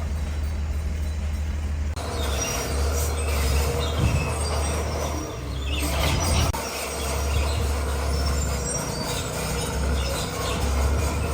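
Bulldozer at work: its diesel engine runs steadily, and about two seconds in the squeal and clank of its steel tracks and the scrape of stone grow louder. A short sharp knock comes about six seconds in.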